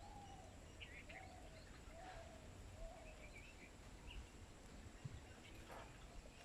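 Faint birds calling: a run of short, slightly falling calls about once a second over the first three seconds, with small high chirps scattered throughout.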